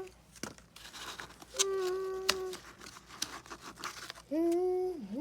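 Tape being torn and cardboard crinkling in short scratchy bursts. A voice holds two short steady notes, about a second and a half in and again near the end.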